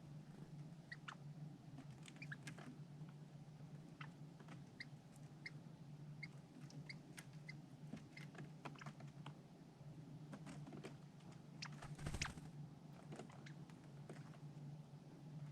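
Faint, irregular small clicks and crunches of a squirrel gnawing food close to the microphone, with a brief rustle about twelve seconds in.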